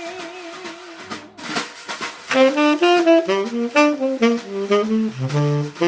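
Swing jazz band with drum kit: a held note with vibrato fades in the first second, then a saxophone plays a quick run of notes that works its way down in pitch.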